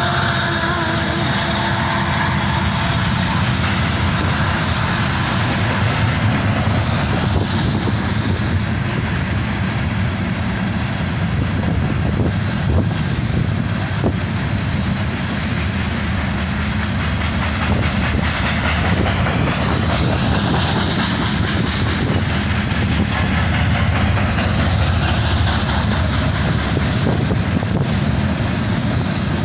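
Freight train's open-top rock hopper cars rolling past close by: a steady rumble of steel wheels on rail with occasional clicks. A steady whine heard at the start fades out within the first few seconds.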